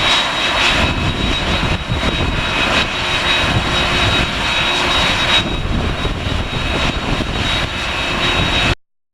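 Jet engines of an arriving Boeing 767 airliner running steadily, a broad rushing noise with a high whine over it. The sound cuts off suddenly near the end.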